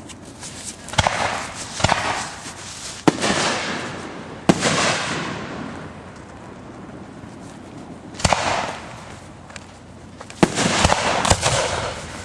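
Aerial firework shells going off in a display: about seven sharp booming reports at irregular intervals, most of them trailed by about a second of crackle.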